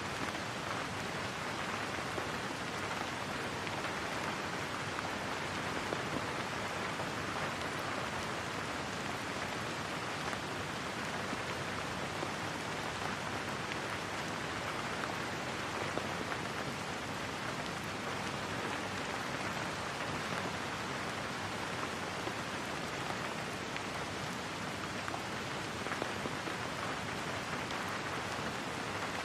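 Steady rain falling on a surface, a constant even patter with no lulls.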